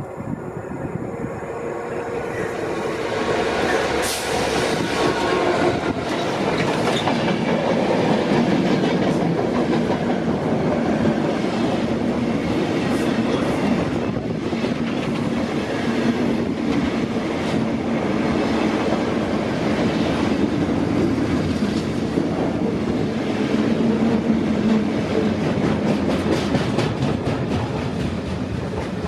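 Engineering train passing close by, its wagons clattering rhythmically over the rail joints. It builds up over the first few seconds, then runs steady.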